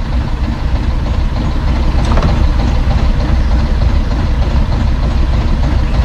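Ford car engine idling steadily, just started, with a low, even hum.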